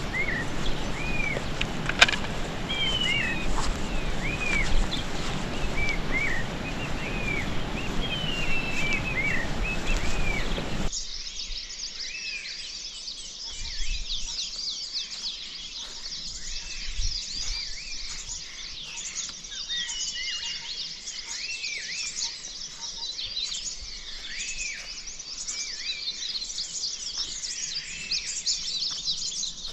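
Songbirds calling with repeated short, arching chirps over a steady rushing background noise. About eleven seconds in, the background noise drops away abruptly, and a denser, higher-pitched chorus of birdsong carries on.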